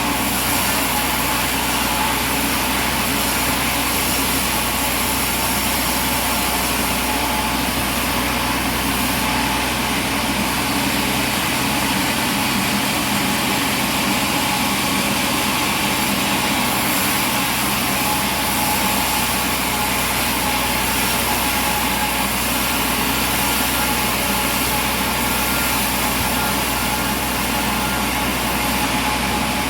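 Sawmill machinery running steadily: an even engine-like drone with a few constant tones and no cuts or knocks.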